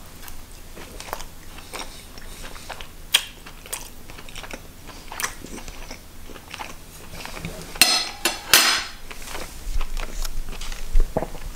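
Close-up chewing of a mouthful of pork bratwurst: wet mouth clicks and smacks, with a louder noisy burst about eight seconds in.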